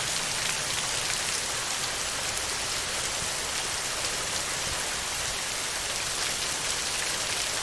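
Steady heavy rain drumming on a tin roof, a dense even hiss with fine ticks of individual drops throughout.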